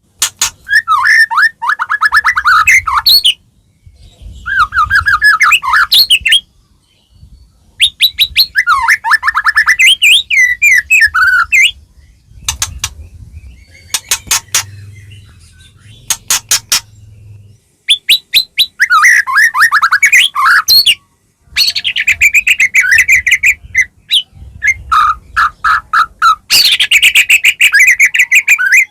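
White-rumped shama (murai batu) in full, loud song: phrases of rapid repeated notes, whistles and sharp clicking notes, each a second to four seconds long, split by short pauses. This is the continuous 'gacor' singing that keepers play to provoke their own birds into song.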